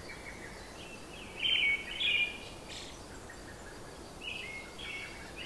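A bird chirping in short high phrases over a steady background hiss: two phrases about one and a half to two seconds in, and another near the end.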